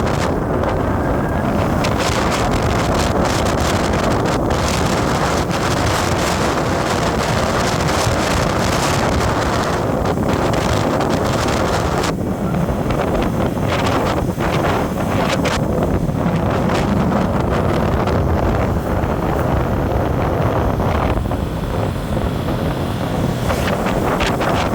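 Wind buffeting the microphone on a moving road vehicle, over steady road and engine noise.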